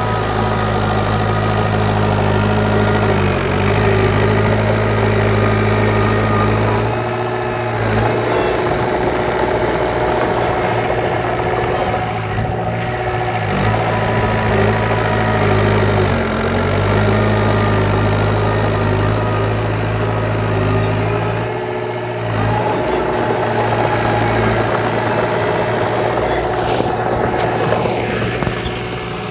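Heavy-equipment diesel engine running steadily, its note dipping or shifting briefly several times as the load or throttle changes.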